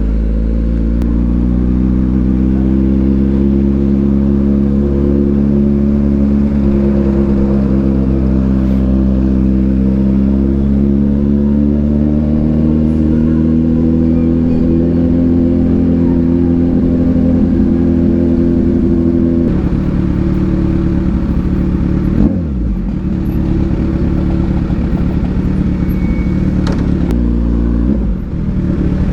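Kawasaki Ninja 1000SX inline-four with an AR aftermarket exhaust pulling under load while riding, its pitch rising slowly and then holding. The engine note steps down sharply about two-thirds in, as on an upshift, and changes again near the end.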